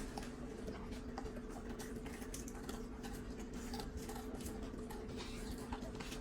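A Tibetan Mastiff chewing and crunching Cheetos: a steady run of small, irregular crisp clicks. A steady low hum lies underneath.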